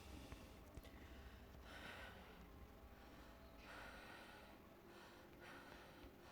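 A woman breathing faintly, with about three slow breaths, each lasting under a second.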